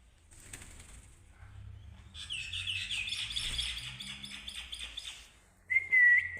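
Pet budgerigar chattering: a short raspy note, then a quick run of warbling chirps lasting about three seconds, and a loud whistle near the end.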